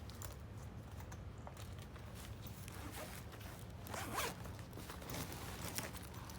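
Zipper on a medical gear bag being worked open, with a short rasp about four seconds in, over a steady low hum.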